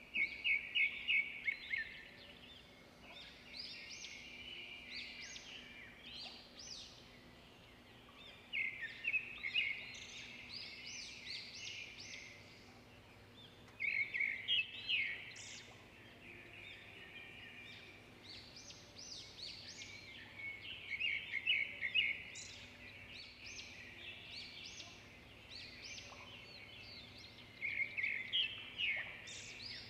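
Small birds chirping in bursts of rapid, high notes that come about every six seconds, over a faint steady hum.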